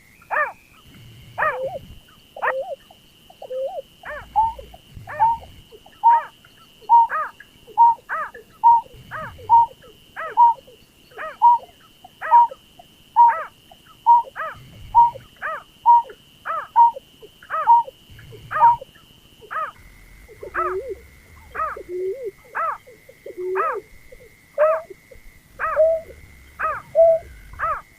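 Berkik (pekung) bird calling over and over: a long, even series of short falling notes, about one and a half a second. A steady high-pitched tone runs behind them and drops in pitch about twenty seconds in.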